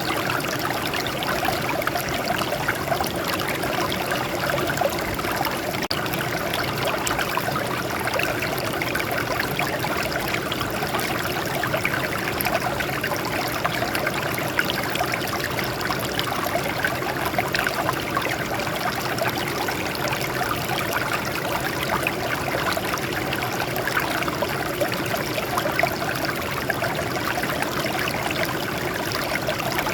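Water flowing and trickling over rocks, a steady splashing stream sound.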